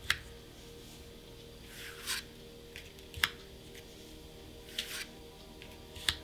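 Plastic card sleeves and their packaging being handled: three sharp clicks about three seconds apart, with soft rustling swishes between them.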